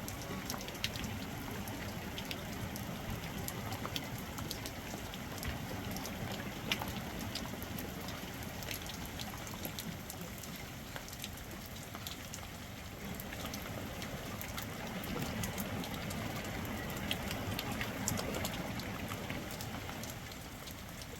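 Steady rain falling, with many separate drops striking a surface as small sharp ticks over an even hiss.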